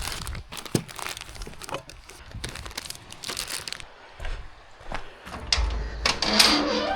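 Plastic food bags and packaging crinkling and rustling as they are handled, in irregular crackly bursts. Near the end a louder scraping sound with a steady low pitch sets in.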